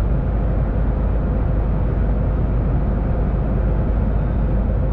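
Steady drone of a MAN TGX truck cruising at speed, engine and road noise inside the cab, with a faint steady hum over it.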